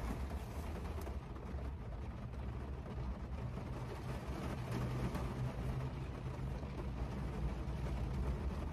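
A parked car's engine idling, heard from inside the cabin as a steady low hum.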